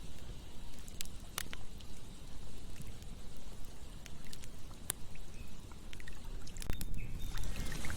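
Campfire crackling: scattered sharp pops and snaps from the burning wood over a low, steady rushing of the flames.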